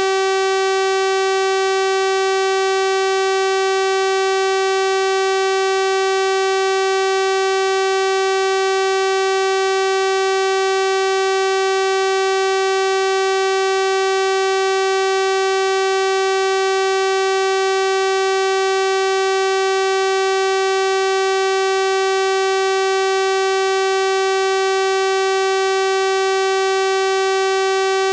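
Steady electronic 384 Hz sawtooth-wave tone, a constant buzzy pitch rich in overtones with no change in level.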